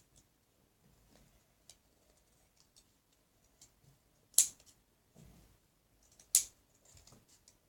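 Scissors snipping: faint small clicks throughout, with two sharp snaps, one about halfway through and another two seconds later.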